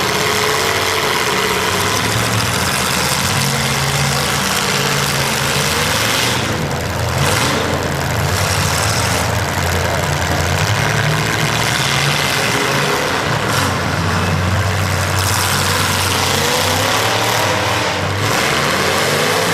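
Demolition derby cars' engines running and revving loudly, the engine pitch rising and falling over and over.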